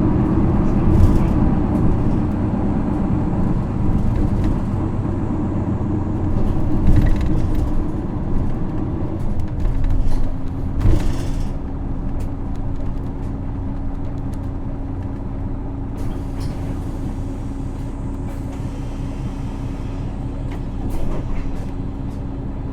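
Interior sound of an Isuzu Erga bus's 6HK1 straight-six diesel. It runs under way for the first several seconds, then settles to a steady idle about ten seconds in as the bus comes to rest. A short hiss of air from the brake system comes at about eleven seconds.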